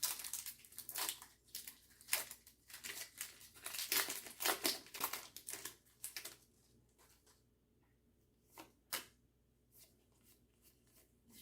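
Foil booster pack of Pokémon trading cards being torn open and crinkled: a dense run of tearing and rustling for about six seconds, then a couple of brief rustles a few seconds later.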